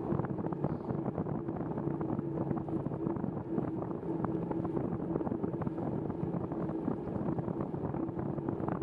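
Bicycle ride on a wet paved trail: steady wind rush on the microphone and tyre noise on the wet surface, with a steady low hum and scattered small ticks.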